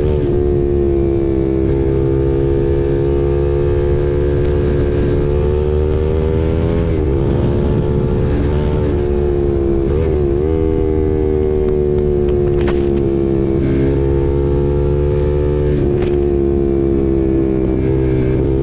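KTM RC 390's single-cylinder engine through an SC-Project aftermarket exhaust, ridden at a steady cruise. The pitch rises and falls gently, with a few brief throttle changes near the middle.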